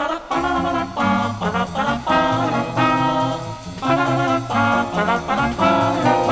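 Jazz band with trombone and trumpet playing short brass phrases over a walking bass and drums, from a 1966 mono Melodiya vinyl LP.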